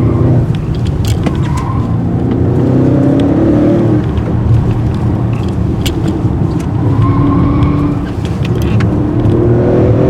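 Audi RS6's twin-turbo V8 pulling hard, heard from inside the cabin. Its pitch climbs twice as it accelerates through the gears, with a gear change between.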